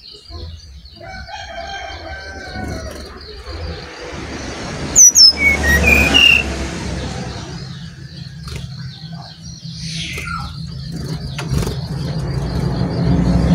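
Brown-chested jungle flycatcher giving a few short, bright chirps about five seconds in, with loud sharp knocks at the same moment, over a low rumble and a steady high pulsing tone that fades near the end.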